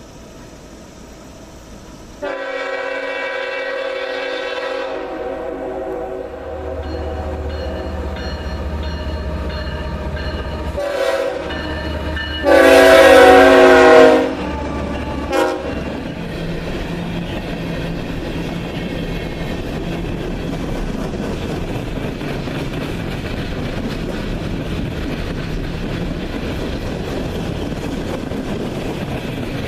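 Locomotive air horn sounding a sequence: a long blast, a short one, a louder long blast and a brief toot, over the low rumble of the diesel engine. After that the train rolls past steadily, its wheels clicking over the rail joints.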